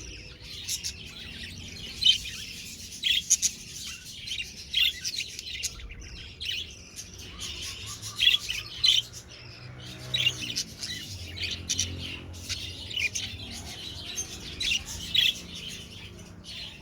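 Budgerigars chirping and chattering: many short, sharp chirps in quick succession.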